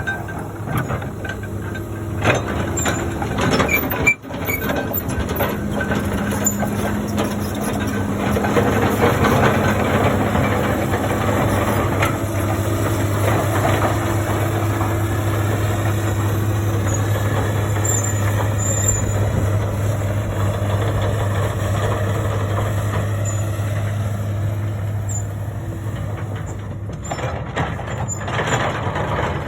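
Komatsu PC200 hydraulic excavator's diesel engine running, a steady drone that grows louder and holds for a long stretch before easing off near the end. A single sharp knock comes about four seconds in.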